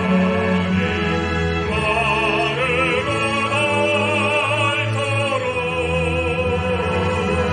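Operatic solo singing with wide vibrato on long held notes, over a steady recorded orchestral accompaniment.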